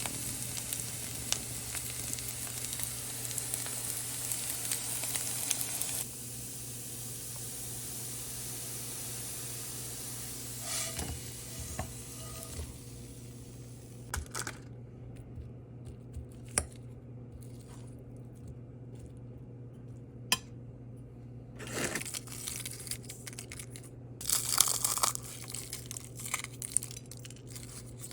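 Kitchen food-preparation sounds: a steady hiss for the first several seconds, then scattered clicks and clinks, with bursts of packaging crinkling and tearing near the end.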